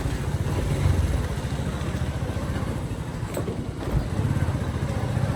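Motorcycle engine running while being ridden, a steady low putter that eases off briefly a little past halfway, then picks back up.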